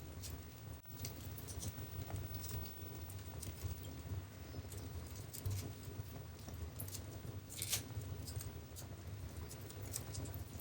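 Wood fire in a fireplace crackling: irregular small pops and snaps over a low steady rumble, with one louder pop about three quarters of the way through.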